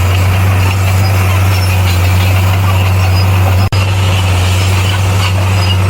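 Heavy diesel earthmoving machine engine running steadily with a deep drone, the sound cutting out for an instant about two-thirds of the way through.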